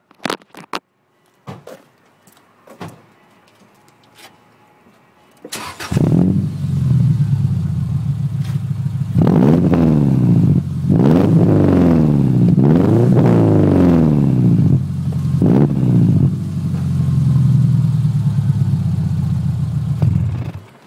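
2003 Subaru Legacy's boxer engine breathing through a custom 3.5-inch exhaust: after a few clicks it starts about six seconds in and idles, then is revved in several quick blips between about nine and sixteen seconds. It settles back to idle and is switched off near the end.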